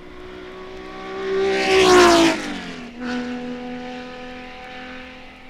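A racing car's engine comes up fast and passes close, its note rising and getting louder, then dropping sharply in pitch as it goes by about two seconds in. Just before three seconds there is a brief break in the engine note, and then it carries on at a lower, steadier pitch as the car pulls away. This fits a gear change on the run between Mulsanne and Indianapolis.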